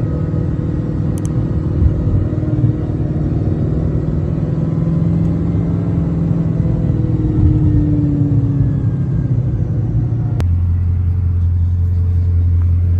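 Bugatti's quad-turbocharged W16 engine heard from inside the cabin while driving in traffic, a steady low rumble. About ten seconds in it cuts suddenly to a lower, even engine hum.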